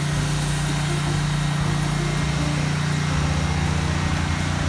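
A motor running steadily with a low, unbroken hum.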